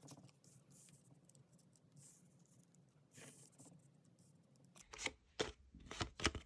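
Tarot cards being handled: soft rustling and sliding, then about five sharp snaps and taps of cards close together near the end.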